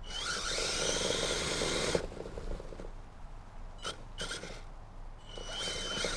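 Kyosho Blizzard RC tracked vehicle's motor whining under throttle while its paddle tracks churn, in two bursts: one of about two seconds at the start and another near the end, with short blips of throttle in between.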